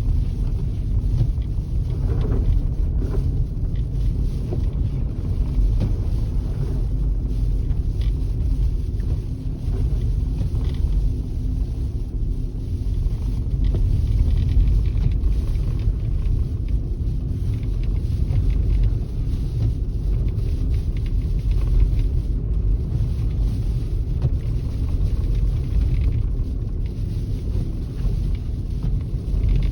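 Steady low rumble of a car driving: engine and road noise with a faint constant hum.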